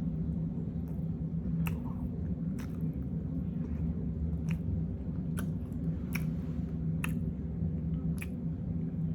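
A person chewing soft food close to the microphone with open-mouthed, wet smacks about once a second, over a steady low hum.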